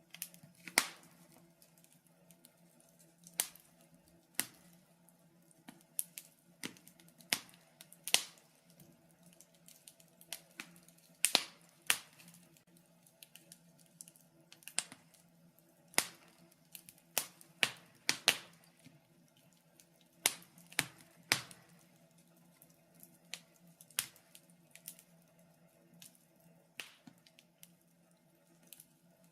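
Wood fire crackling in a fireplace: irregular sharp pops and snaps, about one or two a second, some coming in quick clusters, over a faint steady low hum.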